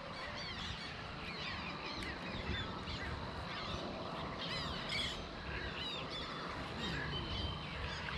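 Birds calling: many short, quick chirps overlapping one another, over a steady low background hum.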